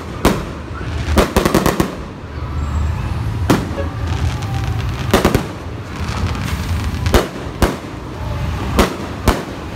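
Aerial fireworks shells bursting: a series of sharp bangs a second or two apart, with a quick run of cracks about a second and a half in, over a steady low rumble.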